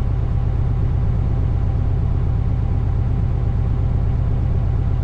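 Tri-axle rollback truck's diesel engine idling steadily.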